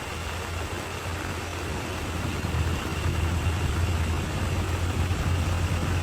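Bulldozer's heavy diesel engine running with a steady low drone, growing louder about two and a half seconds in.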